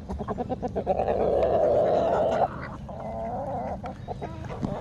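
Poultry calling: a run of quick notes, then one long harsh call of about a second and a half, then a shorter wavering call.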